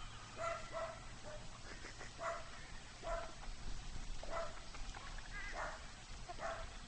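A dog barking repeatedly, short single barks about once a second.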